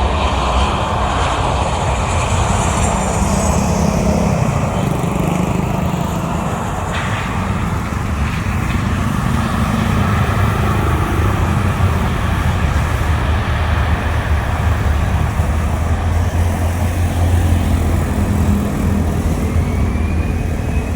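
Jet airliner engines: a loud, continuous deep rumble, with a high whine that falls in pitch a few seconds in as the aircraft passes.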